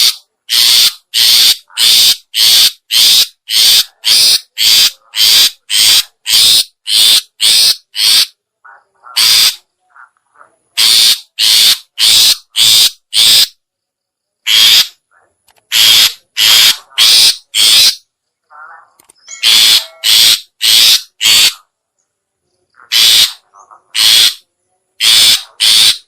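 Long-tailed shrike (cendet) giving harsh, rasping 'toet' calls, about two a second, in runs of several broken by short pauses: a recorded lure call used to draw in shrikes for trapping.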